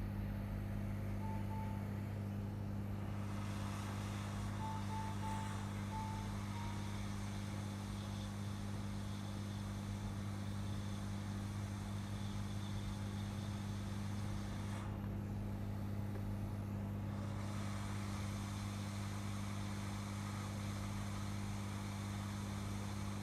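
Hot-air rework station running with a steady hum, as it is used to remove ICs from a burnt laptop motherboard. A single short beep sounds about a second in, and a quick string of beeps follows around five to six seconds in.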